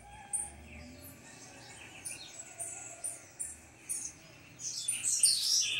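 Small birds chirping: many short, high notes scattered through, growing busier and louder near the end, over faint outdoor background noise.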